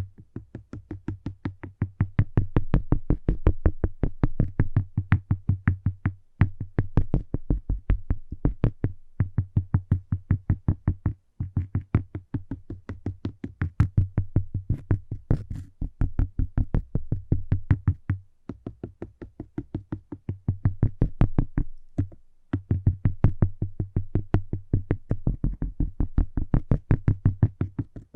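Rapid tapping on cork, about five taps a second, in runs of several seconds broken by short pauses.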